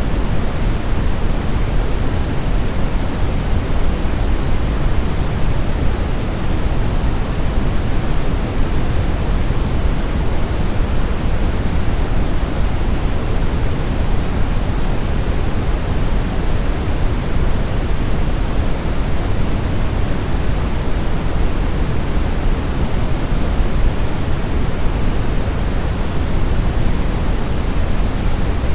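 Steady, loud brown noise: a deep, even rumbling hiss weighted toward the low end, unchanging throughout.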